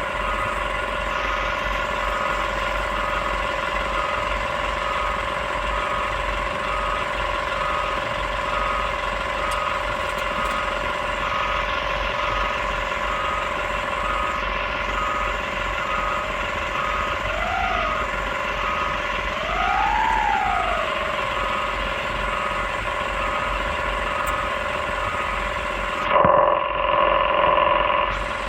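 Excavator's engine and hydraulics running steadily with a whine. Twice the whine rises and falls briefly in pitch as the machine works, and near the end there is a louder stretch of about two seconds.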